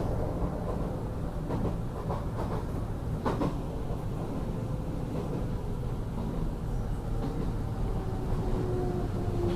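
Enshu Railway electric train running on the line, a steady low rumble with a few knocks from the wheels and rails. Near the end a steady tone comes in and slowly falls in pitch as the train slows toward its terminus.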